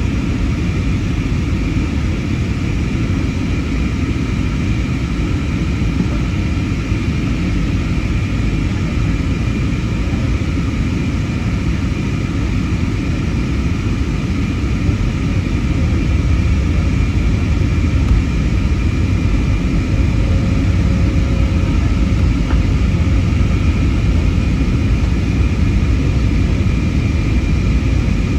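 Steady engine and airflow rumble inside the cabin of an Airbus A320neo (A320-251N, Pratt & Whitney PW1100G geared turbofans) in flight, with a few steady high tones above it. It grows slightly louder about halfway through.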